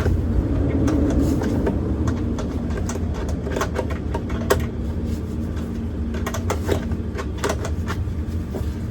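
Scattered small metallic clicks of an 8 mm spanner working a nut tight on a truck door's inner panel, over a steady low rumble.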